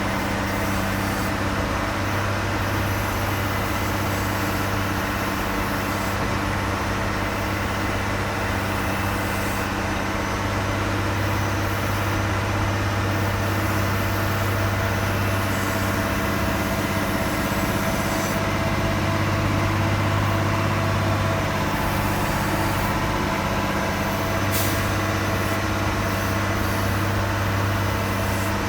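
Steady engine drone of an airliner pushback, with a strong low hum, the machinery of the tug and the aircraft running together. A brief click near the end.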